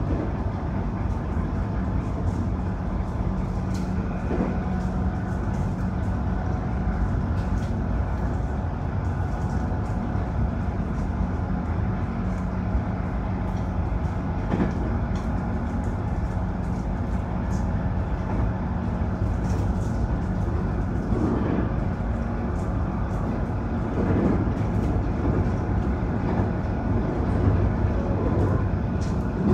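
Electric train running at speed, heard from inside the front of the car: a steady rumble of wheels on rail with a steady low hum and scattered clicks and knocks from the track, growing louder about 24 seconds in.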